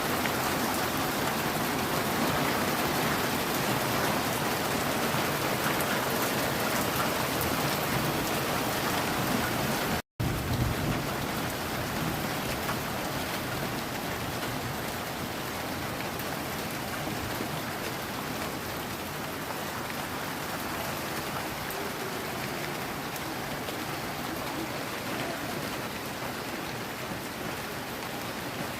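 Steady rain falling and pattering on surfaces. The sound cuts out for an instant about ten seconds in, then carries on a little softer.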